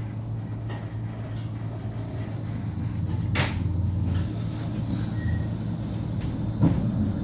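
Flexity tram running at low speed with a steady low hum. A sharp click comes about three and a half seconds in, and two heavier knocks come near the end.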